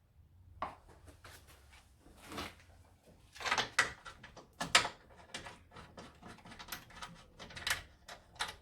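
Metal tools and bolts clicking and clanking irregularly as an engine mount is bolted to the car's chassis, with a few louder knocks.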